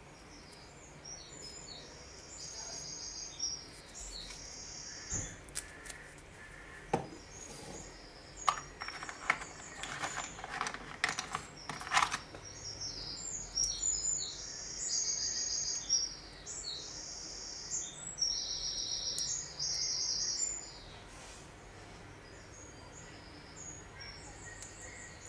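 A bird singing in bursts of high, rapidly repeated chirps. A series of sharp clicks and taps falls in the middle.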